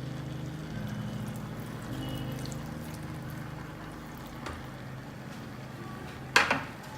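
Water being poured into a pot of vegetables, then one sharp metal clank about six seconds in.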